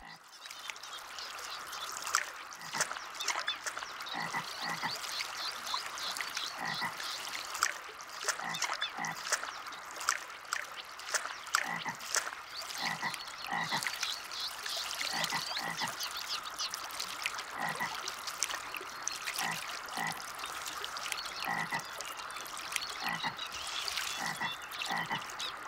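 Frogs croaking in a dense, steady chorus, with short calls in pairs repeating every second or so and scattered clicks.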